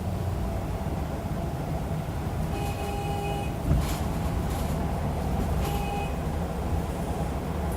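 Hyundai Aerocity 540 bus engine running with a steady low rumble. Twice a short, even tone sounds over it, the first about a second long, the second about half as long, with a single knock between them.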